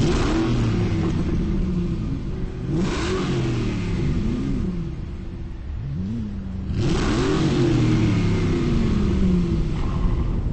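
Car engine revving repeatedly, the pitch climbing and dropping back several times, with the loudest blasts at the start, about three seconds in, and about seven seconds in.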